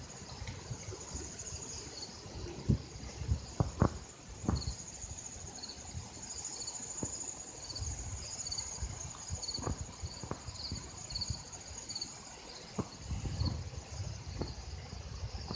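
Insects chirping steadily in a high, thin band, with short repeated chirps, over a few sharp knocks and patches of low rumble from handling or walking close to the microphone.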